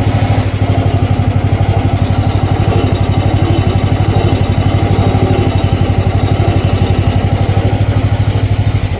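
Mini excavator engine running steadily with a fast, even chug. It starts abruptly and falls away right at the end.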